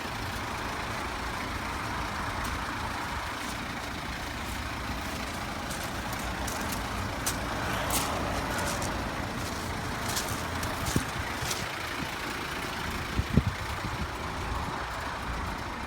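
Mazda Bongo's turbo-diesel engine idling steadily, with a few sharp clicks, the loudest about 13 seconds in.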